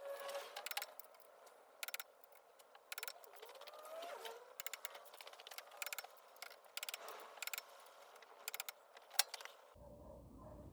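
Faint, scattered metallic clicks and clinks of tools and engine parts being handled during a motorcycle engine top-end rebuild.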